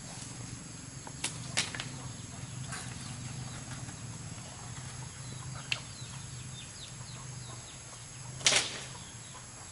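A steady low hum with a handful of short, sharp knocks or rustles scattered over it, the loudest about eight and a half seconds in.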